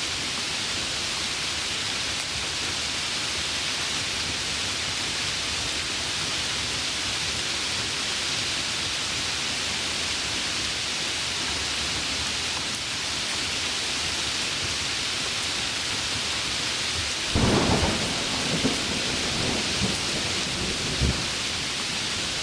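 Heavy rain falling steadily. A thunderclap cracks about three quarters of the way in and rumbles on briefly, with a few smaller peaks, before the rain alone carries on.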